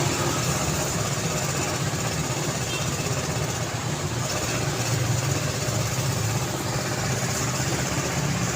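Road traffic: steady engine hum of vehicles with tyre and road noise, no single vehicle standing out.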